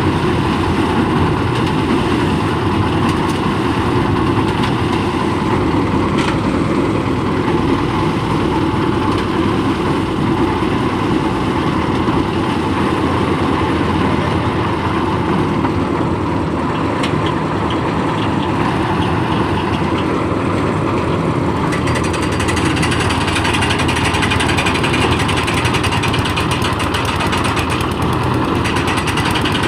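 Engine of a concrete mixer-lift machine running steadily while it mixes and hoists concrete for a roof slab pour. More high-pitched noise joins in about two-thirds of the way through.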